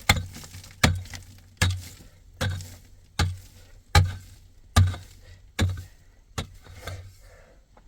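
Repeated heavy blows of a hand tool, about one every 0.8 seconds, each a sharp hit with a dull thud. The strokes are steady and evenly spaced, and they come further apart and weaker near the end.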